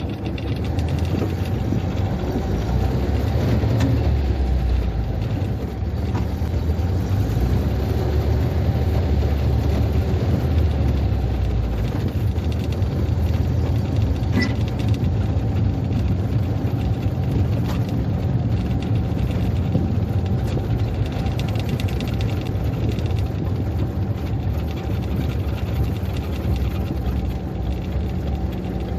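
UAZ off-roader's engine running steadily on the move, a deep, even drone that grows louder for several seconds near the start before settling.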